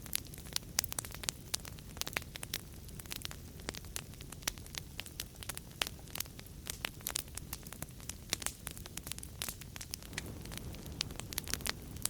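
Wood fire crackling in a fireplace: many sharp irregular pops and snaps over a low steady rumble of flames.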